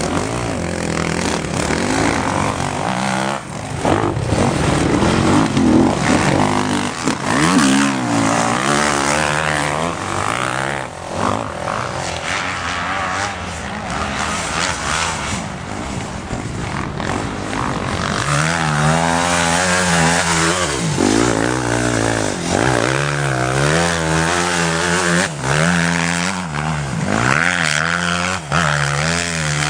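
Motocross bikes racing, their engines revving up and dropping back over and over as they shift gears, with several bikes at once.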